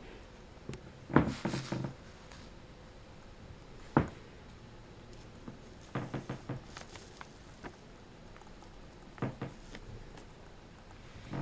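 Objects being handled by hand: scattered knocks and short bursts of clatter, with one sharp single knock about four seconds in.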